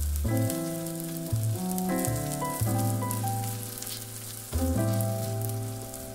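Flatbread frying in a pan, a fine steady sizzle with light crackles, under background music of sustained chords that change every second or so.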